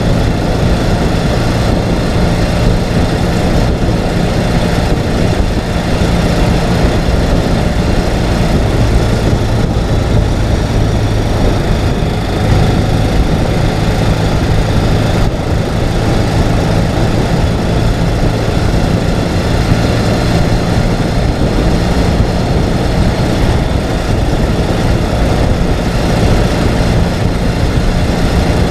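Ural sidecar motorcycle's air-cooled flat-twin engine running at a steady pace while riding, under a steady rush of noise.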